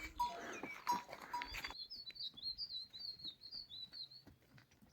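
A small songbird singing a fast, wavering twitter for about two and a half seconds. Before it, a short stretch of busier background noise with small clinks cuts off abruptly.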